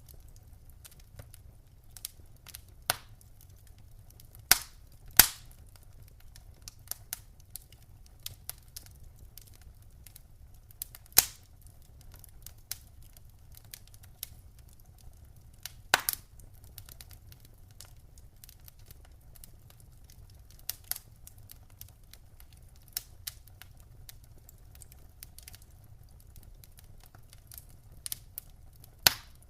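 Wood fire crackling in a fireplace: irregular sharp pops and snaps, a few louder ones among many small crackles, over a faint low rumble of the burning fire.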